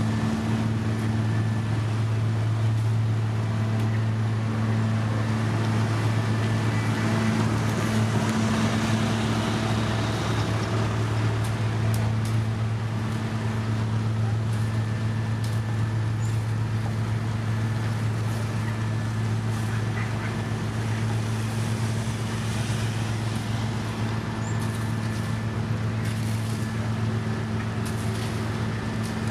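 Heavy road-construction machinery's diesel engine running steadily under a constant deep drone, with a few faint clicks and knocks scattered through.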